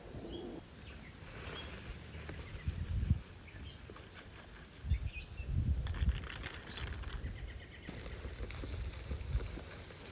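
Small birds giving short, scattered chirps, with low thuds and rumbles now and then, loudest about three seconds in and again around five to six seconds.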